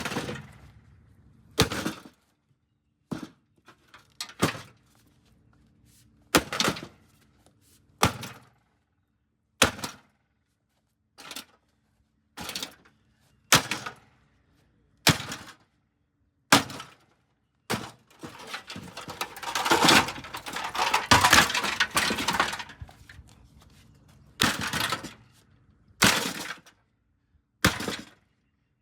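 Repeated heavy blows smashing a microwave oven, about one every one to two seconds, with a longer flurry of crunching and breaking about two-thirds of the way through.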